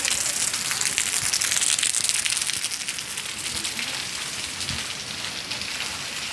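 Heavy rain mixed with hail, a dense steady patter of many small impacts on hard surfaces. It eases slightly about halfway through.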